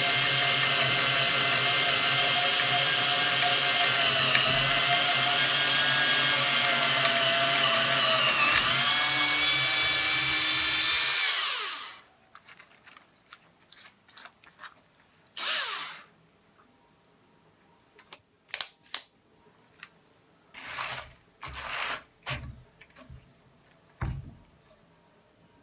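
Bosch GSR 12 VE-2 cordless drill running at a steady high speed, its motor and gearbox whine dipping briefly in pitch twice, then winding down and stopping about eleven seconds in. A few short clicks and handling noises follow.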